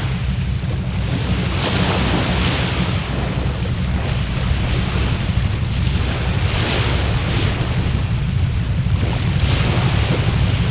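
Wood fire burning with a steady rushing hiss that swells every second or two, under a heavy rumble of wind on the microphone; a thin, steady high-pitched whine runs throughout.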